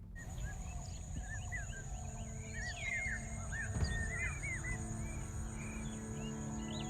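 Natural ambience of many small birds chirping and calling over a steady, high, pulsing insect drone, with a low rumble underneath.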